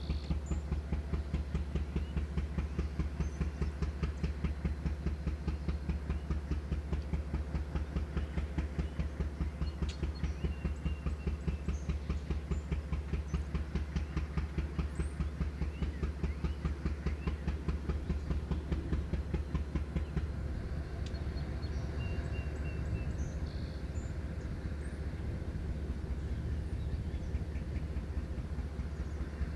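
Freight train running: a rapid, even pulsing over a steady low hum, turning rougher and less regular about twenty seconds in.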